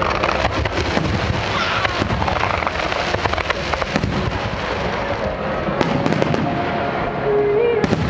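Dense barrage of aerial firework shells launching and bursting at close range: a rapid, overlapping run of bangs and crackles with no break.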